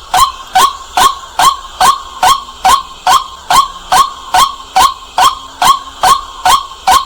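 White-breasted waterhen calling loudly, short sharp calls repeated in an unbroken, evenly paced series of about two and a half a second.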